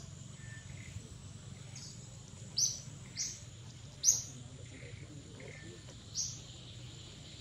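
Birds chirping: several short, high chirps spaced a second or two apart, over a steady low background hum.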